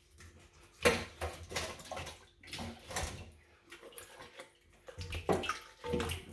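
Water splashing and sloshing as raw chicken pieces are washed and handled, with a few knocks of dishes; the sharpest knock comes about a second in.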